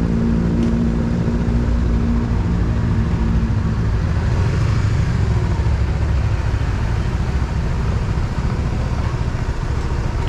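Motorcycle engine running at low speed: a steady hum for the first four seconds or so, after which only a low rumble continues.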